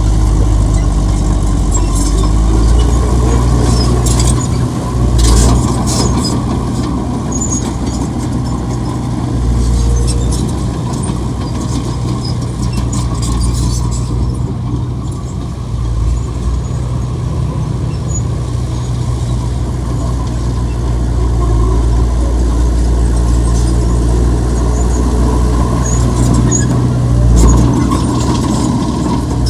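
Heavy diesel earthmoving machinery running steadily under load, with intermittent high squeals and short clanks.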